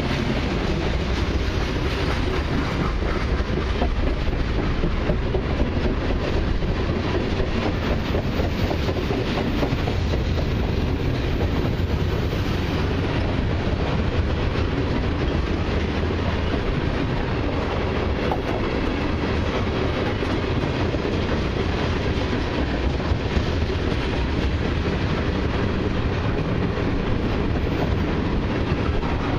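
Freight train tank cars rolling past close by: a steady rumble of steel wheels on rail, with clickety-clack over the joints.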